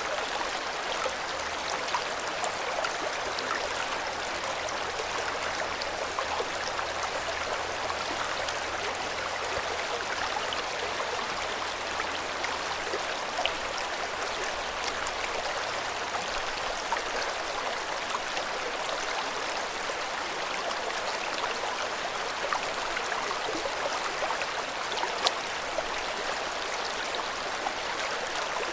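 River water flowing steadily over stones, a continuous rushing with small splashes and droplet ticks scattered through it.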